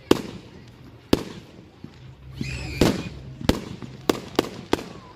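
Fireworks going off: about seven sharp, irregularly spaced bangs.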